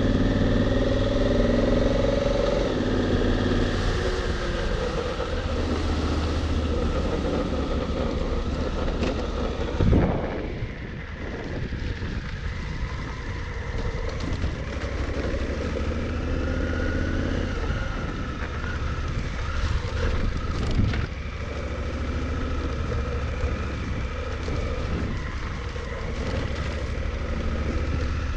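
Honda Africa Twin's parallel-twin engine running steadily as the motorcycle is ridden, under a steady rushing noise. A single sharp thump about ten seconds in.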